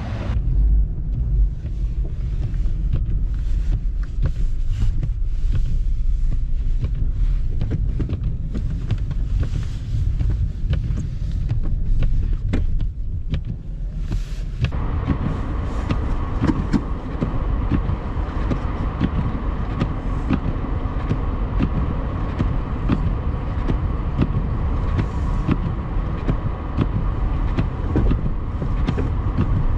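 Four-wheel-drive car heard from inside the cabin in heavy snow: a steady low rumble of engine and road. About halfway through, a steady higher hum joins it.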